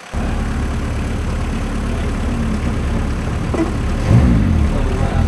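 Car engine running loud and steady under load, cutting in suddenly at the start, with a brief swing in pitch and a peak in loudness about four seconds in.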